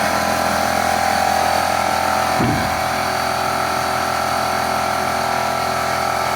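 A machine running steadily with an even, high whine over a steady noise.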